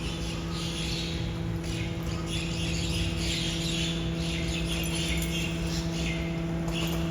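Garbage truck running with a steady, even hum, with irregular hissing and rustling noise coming and going above it.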